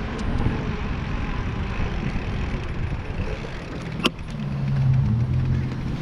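Wind and road noise from a moving bicycle ride, with one sharp click about four seconds in. Right after the click, a low steady motor-vehicle hum comes in.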